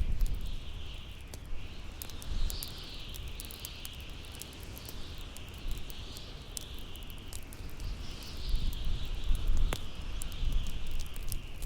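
Howling wind, a whistling tone that rises and falls in slow swells over a low rumble of gusts, with the sharp crackle and pops of a bonfire scattered throughout.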